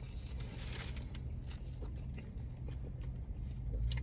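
A person chewing a sandwich, with faint scattered mouth clicks and ticks over a steady low hum.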